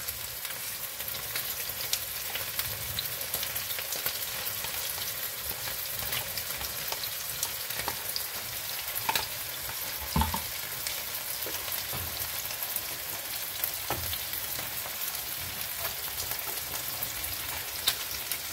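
Steady sizzling and crackling of pork frying in oil in one pan beside a second pan of fried onions and flour that thick sour cream is being added to. A couple of short knocks about halfway through, and wooden-spatula stirring near the end.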